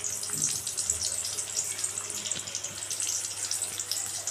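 Sliced onions and green chillies sizzling in hot oil in a pan: a steady frying hiss with small crackles.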